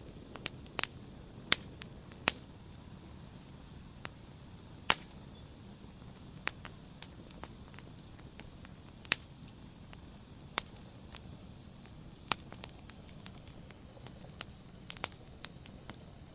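Wood fire crackling in a fireplace: irregular sharp pops and snaps, a few louder than the rest, over a soft steady hiss and low rumble of the flames.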